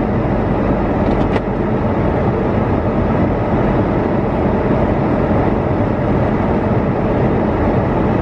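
Car engine held under steady throttle while the drive wheels spin in snow, the car sliding in place without getting traction. A loud, even noise with no rise or fall.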